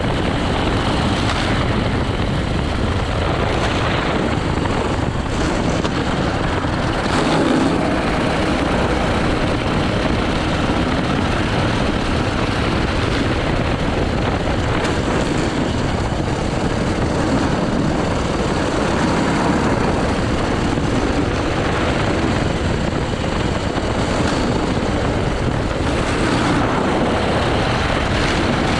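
80cc go-kart engine running continuously during a timed lap, with a loud, steady rushing noise laid over it.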